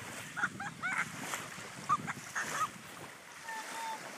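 A bird giving a quick series of short, hooked calls, then one longer held call near the end, over steady wind and waves washing on the shore.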